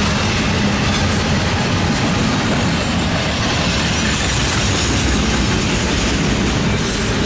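Double-stack intermodal freight train's container well cars rolling past: a loud, steady rush and rumble of steel wheels on rail.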